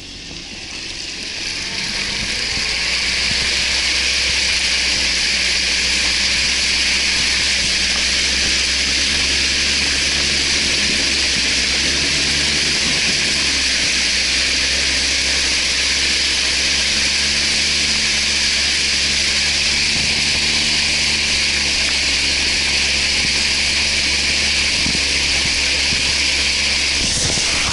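Off-road vehicle engine running steadily under a loud, even hiss, building up over the first few seconds and then holding level.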